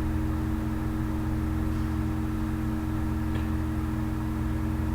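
A steady low hum with two steady tones above it, unchanging throughout.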